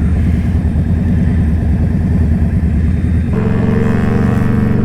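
Motorcycle engine running on the move. A bit over three seconds in, the engine note changes to a clearer, steadier pitched drone.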